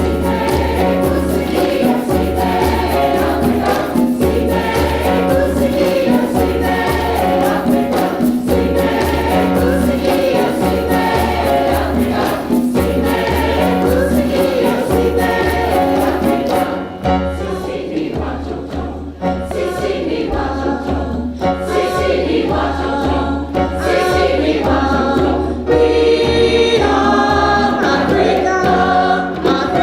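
Community choir singing an African choral song in harmony, over a steady low beat and a sharp rattling percussion that drops out about two-thirds of the way through while the voices carry on.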